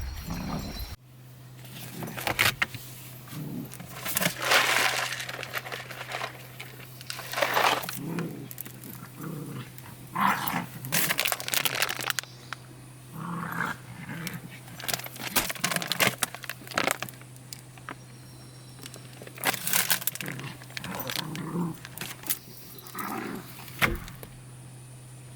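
Irregular scuffing and clinking noises, typical of dogs moving about with their collar tags jingling, over a steady low hum.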